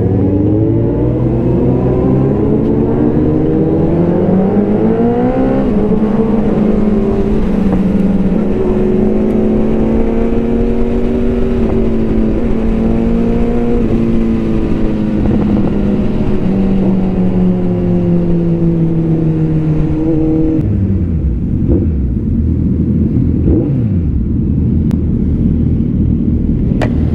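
Motorcycle engine pulling up through the revs over the first few seconds, then running at a steady high pitch that sags slowly. About twenty seconds in it eases off, leaving a lower rumble.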